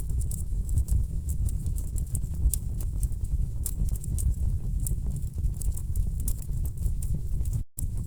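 Wood fire burning in a fireplace: frequent sharp crackles and pops over a low, steady rumble of burning logs, with a brief cut to silence near the end.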